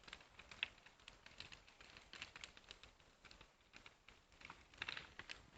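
Faint, scattered snaps and crackles of a small, newly lit campfire, with a short cluster of clicks near the end and little else.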